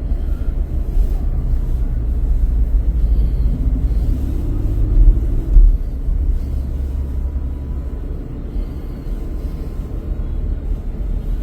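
Car road and engine rumble picked up by a dash cam while driving, steady and low, with a louder low thump about five seconds in.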